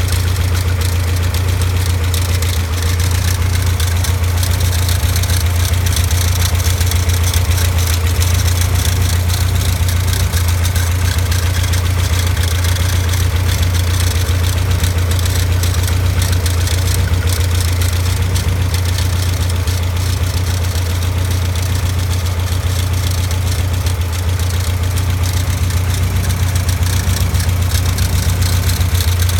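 Caterham Super Seven engine idling steadily with a constant rattle from the alternator, the sign of a worn alternator bearing.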